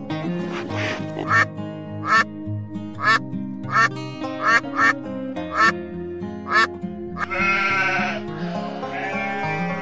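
A duck quacking in a string of about eight short quacks over cheerful background music. Near the end come two longer wavering calls, a sheep bleating.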